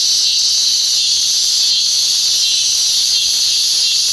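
Cicadas buzzing: a loud, steady, high-pitched drone with no breaks.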